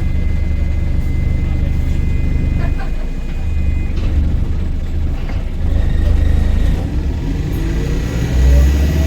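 Volvo B5LH hybrid double-decker bus heard from on board: a heavy low rumble of the engine and running gear with a thin steady whine above it, then its four-cylinder diesel revs up, rising in pitch, near the end.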